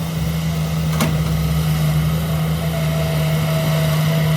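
Heavy earthmoving machine's diesel engine running steadily, with a single short click about a second in.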